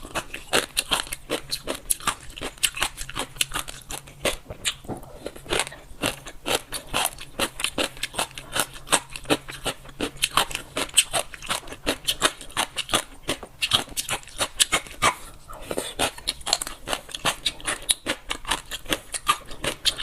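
Close-up crunchy chewing of dressed gongcai (dried celtuce stems, "mountain jellyfish"): a fast, even run of crisp crunches, about four or five a second.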